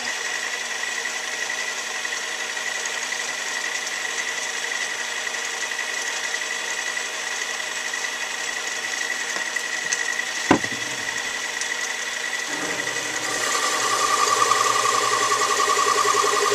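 Metal lathe running steadily with a high, even whine. There is a single sharp click about ten seconds in. Near the end the sound grows louder and takes on a new, lower hum.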